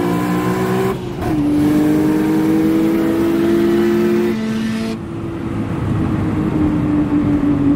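Car engine at full throttle down a drag strip, its pitch climbing steadily, dropping sharply once about a second in as it shifts up, then climbing again; the sound changes abruptly about five seconds in.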